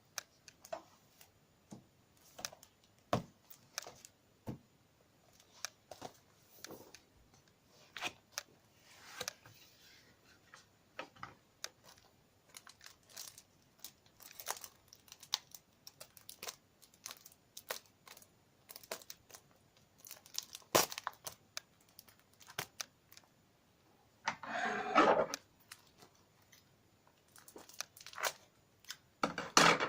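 Plastic shrink-wrap being torn and crinkled off a Blu-ray box set, with scattered sharp clicks and taps of the case being handled and two louder stretches of crinkling near the end.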